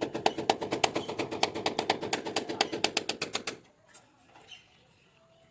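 Rapid, even clicking, about eight clicks a second, that stops about three and a half seconds in.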